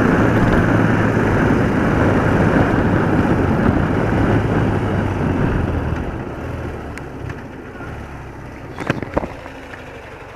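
BMW R80RT's flat-twin engine running with heavy wind noise on the microphone while the motorcycle is ridden; over the last few seconds the noise dies down steadily as the bike slows, and a couple of sharp clicks come near the end.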